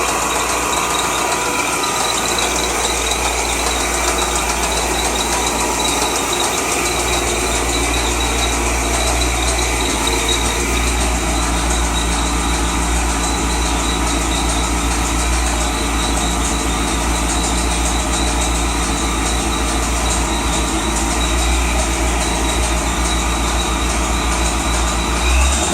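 2003 Corvette Z06's LS6 5.7-litre V8 idling steadily, with the engine knock that the owner is recording. A brief slightly louder moment comes near the end.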